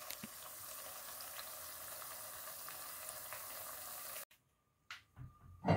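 Ripe plantain slices sizzling as they shallow-fry in hot oil, an even hiss with small pops and crackles that cuts off suddenly about four seconds in. A short knock comes near the end.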